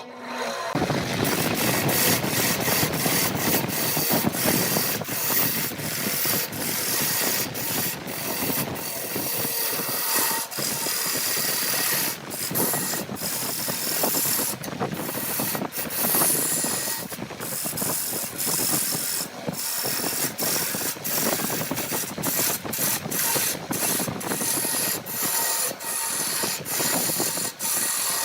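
Woodworking tools cutting and scraping wood: a continuous rasping noise broken by many brief gaps.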